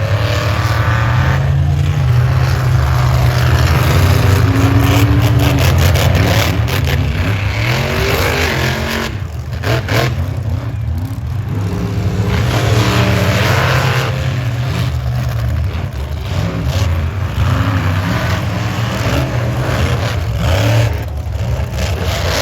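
Large monster-truck engine revving repeatedly, its pitch rising and falling over a heavy rumble.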